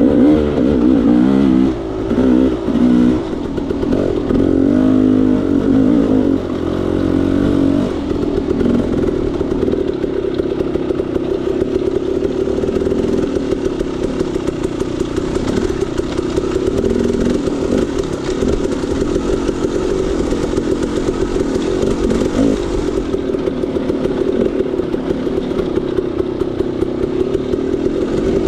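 KTM 300 XC-W two-stroke single-cylinder dirt bike engine being ridden: revving up and down over the first several seconds, then holding a steadier, lower engine speed for the rest.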